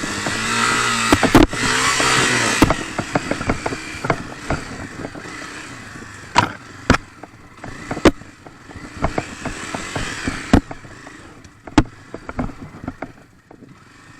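Honda CRF250 dirt bike's single-cylinder four-stroke engine revving up and down for the first few seconds, then running more quietly. Frequent sharp knocks and clacks sound over it throughout.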